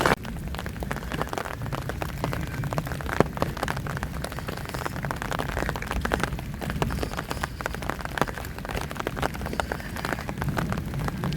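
Rain falling, with many irregular individual drops tapping close by over a steady low rumble.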